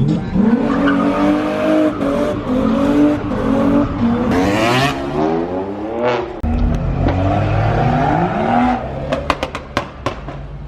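A car engine revving hard in repeated rising sweeps, with a burst of tyre squeal about four and a half seconds in. Near the end comes a quick run of sharp pops.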